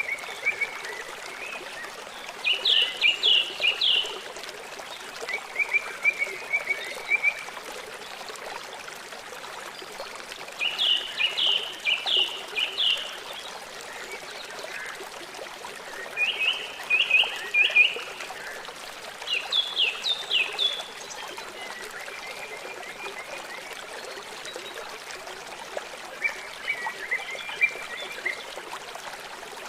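A songbird singing short phrases of quick repeated notes, about eight of them a few seconds apart, over a steady hiss of running water.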